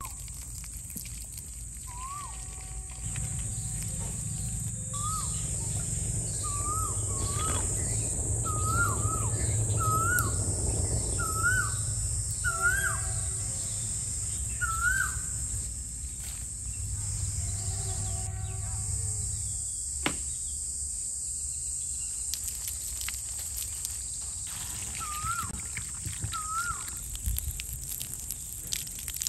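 A bird repeating a short whistled note that rises and then drops, every second or two, with pauses. Under it runs a steady high-pitched hiss, and a low rushing noise swells in about three seconds in and fades out around two-thirds of the way through.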